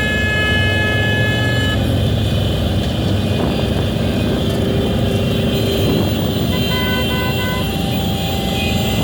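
Motorcycle and traffic engines running in a steady low rumble, with vehicle horns honking over them: one long horn that stops about two seconds in, and a few short toots near the end.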